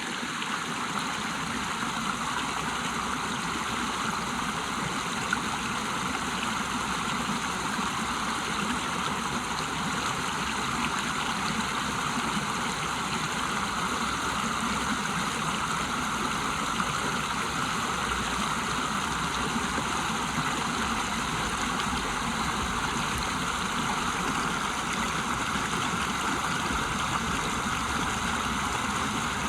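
River waterfall: water rushing steadily and evenly, with no change in strength.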